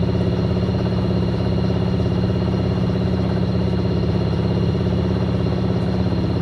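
Fisher & Paykel MW059 washing machine running steadily in its spin, a constant high motor whine over a low hum.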